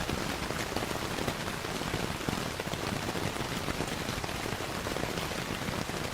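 Steady rainfall blended with a crackling wood fire: an even hiss of rain dotted with many small, irregular pops and ticks.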